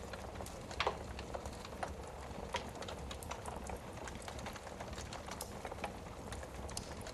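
Wood fire burning in a fireplace, crackling with many small irregular pops and one louder pop about a second in, over a low steady rumble.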